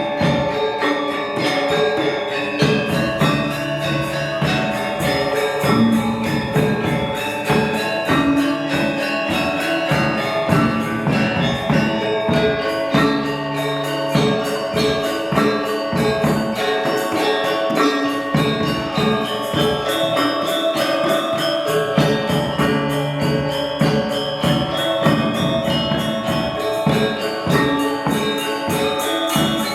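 Balinese gong gamelan ensemble playing a tabuh telu piece: bronze metallophones ring in fast, dense strokes over a steady pulse, with low held tones coming back every few seconds.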